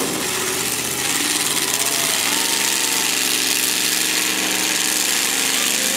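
Truck engine running loud, its pitch climbing about two seconds in and then holding steady at high revs, over a constant hiss.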